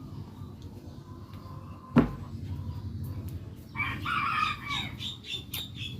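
A rooster crowing once, a call of about two seconds near the end, after a single sharp click about two seconds in.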